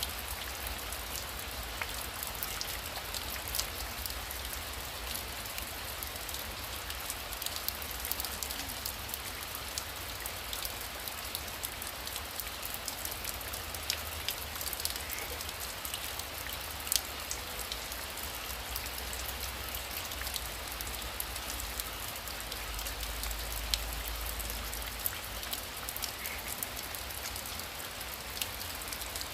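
Heavy rain falling steadily, with many individual drops ticking sharply on a nearby surface.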